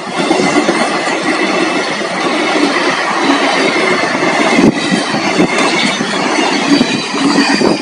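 Train running on the rails: a loud, steady rumble and rattle of wheels and coaches, with a faint high steady squeal over it.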